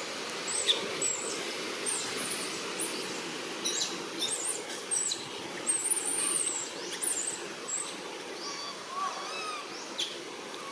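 Short high-pitched chirps and squeaks from animals, repeating irregularly over a steady background hiss, with a longer wavering call about nine seconds in.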